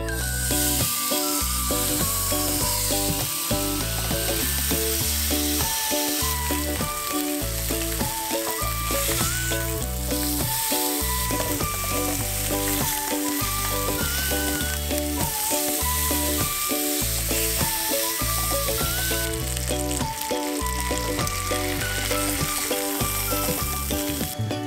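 Salmon steaks sizzling as they fry in a ridged grill pan, a steady high hiss of frying, with background music playing underneath.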